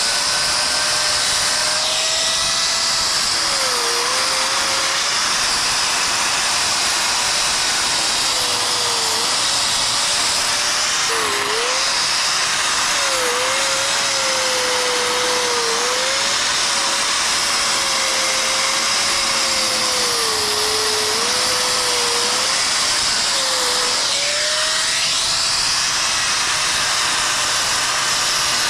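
Angle grinder grinding out the mortar joints of a brick chimney: a loud, steady, gritty whine whose motor pitch dips again and again as the blade bites into the joints, then recovers.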